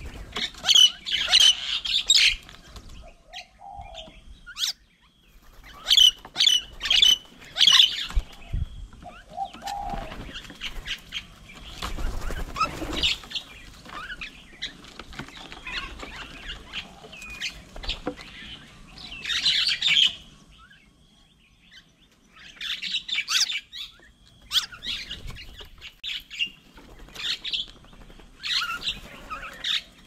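Small birds chirping and calling in repeated bursts of short, high notes, with brief pauses between the bursts.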